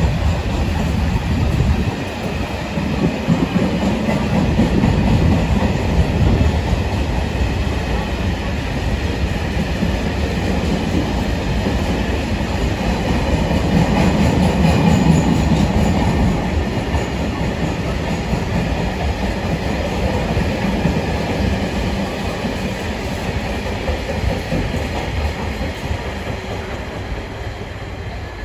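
Freight train of covered car-carrier wagons rolling past at speed, a continuous rumble with the clickety-clack of wheels over rail joints. It grows fainter over the last several seconds as the rear of the train moves away.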